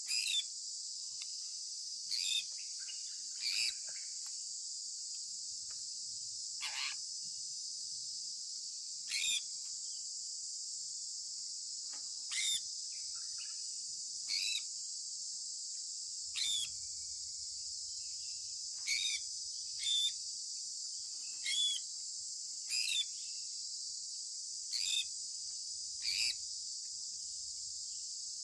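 Sun conure giving short, sharp, downward-sweeping chirps every second or two, over a steady high-pitched hiss.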